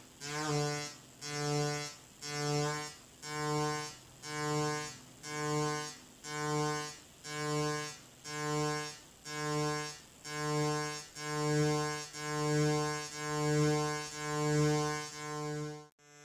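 Future Sound Systems Brunswick synthesizer tone, a buzzy note at one fixed low pitch, swelling and fading about once a second in a steady pulse. It cuts off suddenly near the end.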